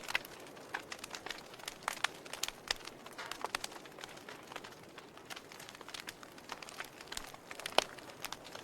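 Wood logs burning in a fireplace, crackling with irregular sharp pops over a soft hiss. One pop near the end is louder than the rest.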